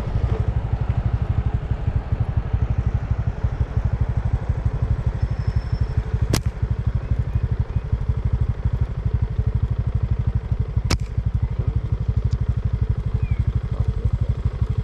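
A small engine idles nearby with a steady, fast low throb. Two sharp snaps cut through it, about six and eleven seconds in, likely slingshot shots being fired.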